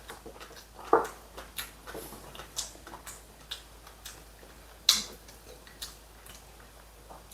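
Tableware at a meal: scattered light clicks and taps of utensils against dishes, one or two a second, the sharpest about a second in and about five seconds in.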